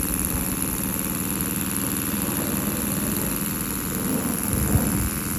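RW-V2 double-acting V-twin model steam engine running on compressed air, its exhaust beating in a fast, even pulse over a steady hum.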